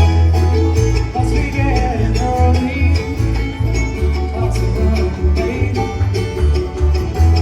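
Bluegrass-style instrumental music: picked banjo and guitar over a strong, moving bass line, with a fiddle-like melody weaving above.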